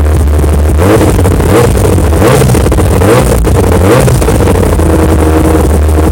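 Yamaha R1 motorcycle engine idling, then revved in a series of quick throttle blips, each rising and falling, before dropping back to a steady idle.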